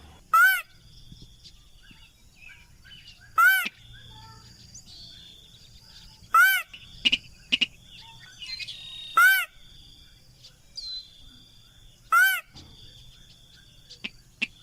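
Recorded lure call of a sintar rail (mandar padi): a short, loud, arched call repeated five times, about every three seconds, with faint chirps and a steady high background tone between the calls.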